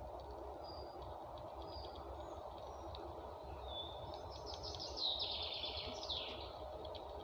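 Small songbird calling: a few short, thin high whistles, then a quick twittering run about four to six seconds in, over a steady low background noise.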